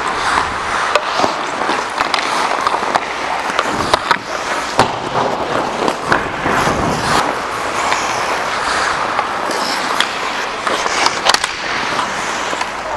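Ice hockey play: skate blades scraping and carving across the ice, with sharp clacks of sticks and puck scattered throughout.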